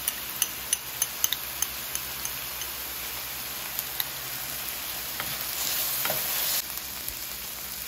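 Ground beef and onions sizzling in a hot stainless steel pan as a wooden spatula stirs in freshly added oyster sauce, with a run of light taps of the spatula against the pan in the first two seconds. The sizzle rises briefly a little before the seventh second.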